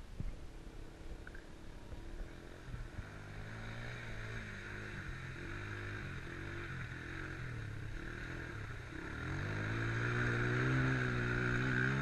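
Single-cylinder 250 cc four-stroke enduro motorcycle engine running, its pitch wavering as the throttle is worked. It grows louder and steadier about nine seconds in.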